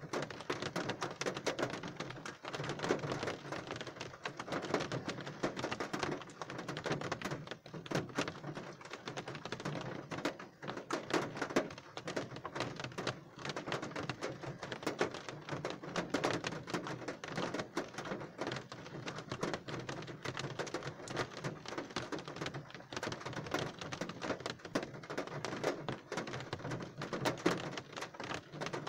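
Rain falling: many sharp, irregular drop taps over a steady patter.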